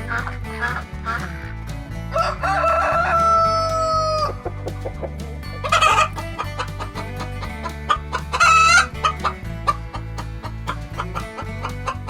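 A rooster crowing once in a long call that drops in pitch at the end, followed by two short chicken calls about six and eight and a half seconds in. Background music with a steady beat runs underneath.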